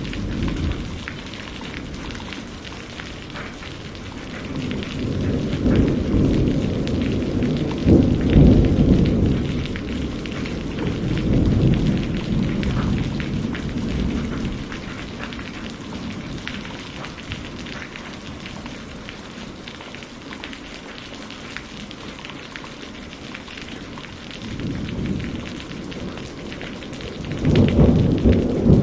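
Steady rain with a dense patter of drops, and rolling thunder that swells twice: a long rumble from about five seconds in to about fourteen, and another near the end.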